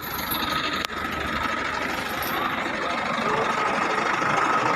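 Steady engine noise of vehicles running, with a thin steady high tone over it and one sharp click just under a second in.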